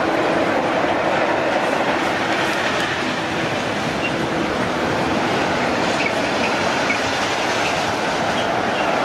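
A train running past close by: a steady, loud rumble of wheels on rail, with a few faint short high squeals in the second half.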